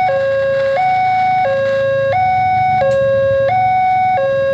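Electronic two-tone warning alarm of a railway level crossing, sounding for an approaching train. It swaps steadily between a low and a higher tone, each held about two-thirds of a second, over a low rumble.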